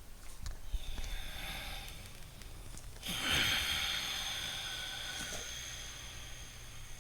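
Loud, deliberate breathing through the nose: one breath lasting about two seconds, then a pause, then a louder, longer breath starting about three seconds in that slowly fades over some three seconds.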